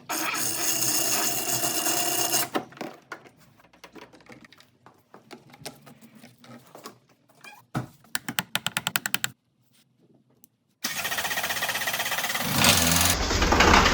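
Workshop tool noises: a steady mechanical run, then scattered clicks and a quick run of ticks. Near the end an engine, likely the Opel Frontera's diesel, starts and settles into an even running pulse.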